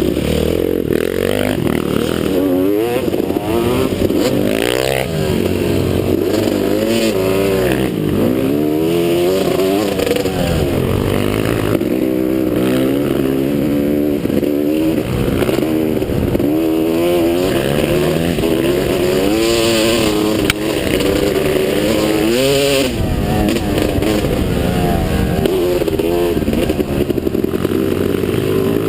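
Motocross bike engine revving hard and dropping back again and again, its pitch climbing and falling every second or two as it runs through the gears.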